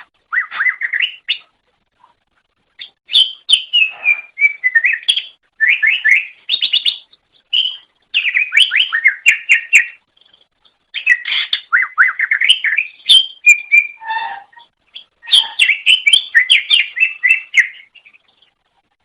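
Greater green leafbird (cucak ijo) singing: fast runs of trilled, chattering notes in phrases of one to three seconds, separated by short pauses.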